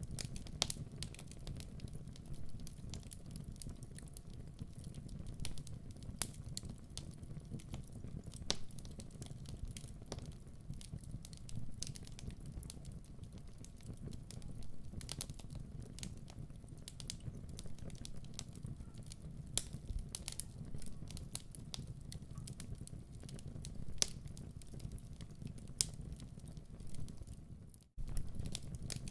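Wood fire crackling in a fireplace: irregular sharp pops and snaps over a low, steady rush of burning. The sound cuts out for an instant about a second before the end.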